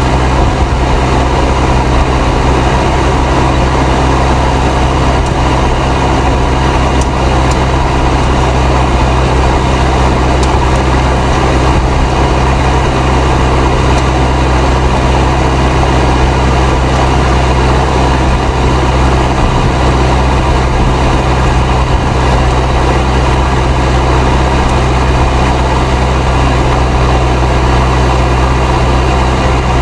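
Fendt 307 Ci tractor's turbocharged diesel engine running steadily under load while pulling a plough, with the whistle of its turbo.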